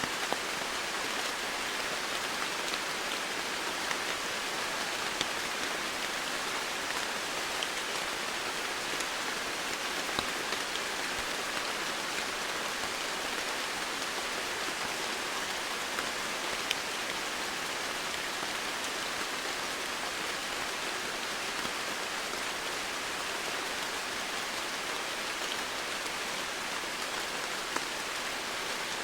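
Steady heavy rain falling, an even hiss with scattered sharper drop ticks.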